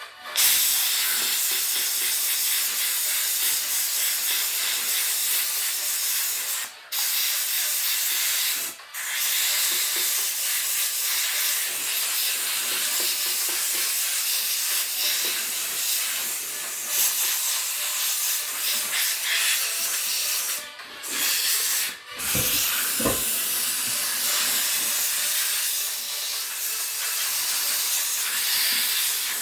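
A steady, loud hiss like a spray or escaping steam, cutting out briefly and starting again four times.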